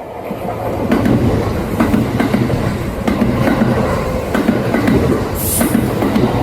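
Kintetsu electric train passing close at speed, its wheels clacking over the rail joints in a repeated clickety-clack. The sound builds over the first second and then holds steady, with a brief hiss near the end.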